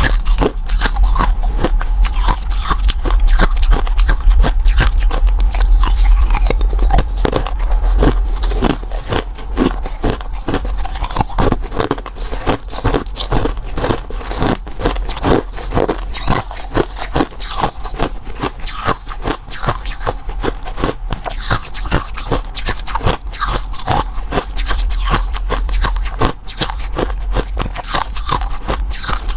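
Close-miked biting and chewing of something crunchy: a dense, irregular run of sharp crunches and crackles, over a steady low hum.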